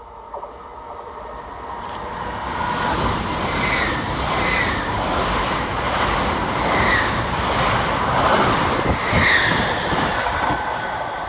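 LNER Class 800 Azuma passenger train approaching and passing along the platform: a building rush of wheel and rail noise with several sharp wheel clatters as the coaches go by, easing off near the end.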